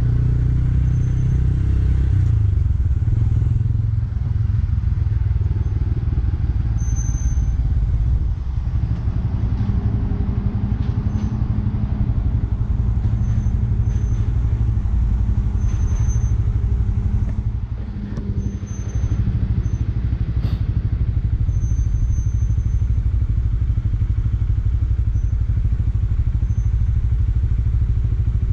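Bajaj Pulsar N160's single-cylinder engine running as the motorcycle is ridden, its pitch falling over the first few seconds and then steadying, with a brief drop in level about two-thirds of the way through.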